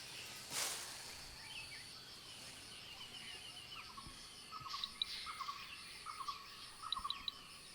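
Tropical forest ambience: insects trilling steadily with a regular pulse, and birds calling, with a run of short repeated calls and a few high chirps in the second half.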